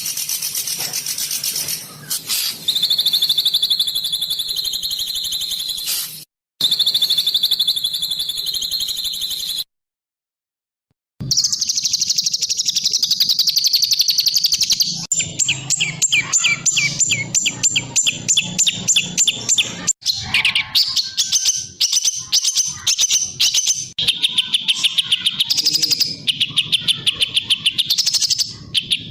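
Several songbird recordings spliced together, each with fast, dense trills and rapid-fire strings of sharp repeated notes. The clips change abruptly, with a short silence about ten seconds in.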